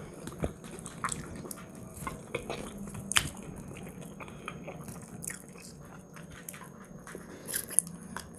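Close-miked chewing of fried chicken, with small wet mouth clicks and smacks and scattered light clicks, one sharper about three seconds in.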